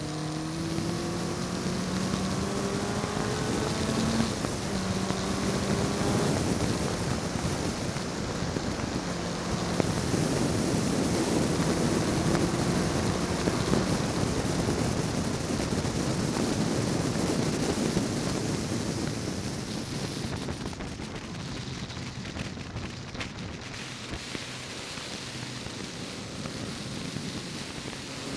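Ford Zetec four-cylinder engine of a Westfield sports car heard from its open cockpit, pulling hard with the revs climbing through two gear changes in the first six seconds. Then a loud rush of wind and engine noise at speed, which drops off about twenty seconds in.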